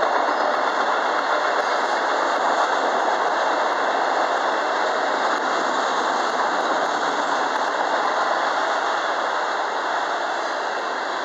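Freight train cars, mostly autoracks, rolling past on steel wheels: a steady, loud rumble and rattle of wheels on rail with no break, easing slightly near the end.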